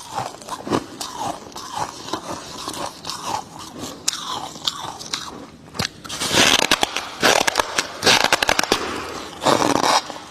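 Close-up biting and chewing of freezer frost, with lighter crackly chewing at first and then loud, dense crunches from about six seconds in.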